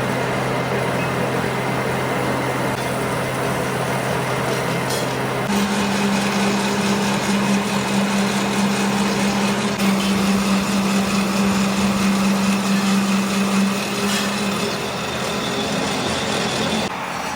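Workshop machine running steadily, with a constant motor hum under a loud, even metal-working noise. About five seconds in, the hum changes to a higher one.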